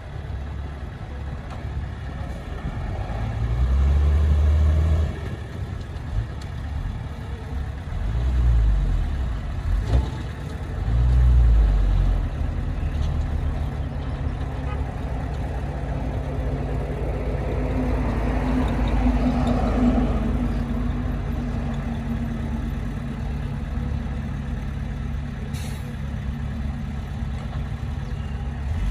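Heavy diesel engine of earthmoving machinery running steadily, with three short loud surges of revving in the first half and a longer build of engine and mechanical noise in the second half.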